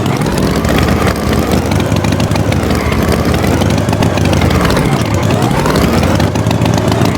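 An engine running steadily, with a low rumble and a pitch that slowly rises and falls, dipping about five seconds in.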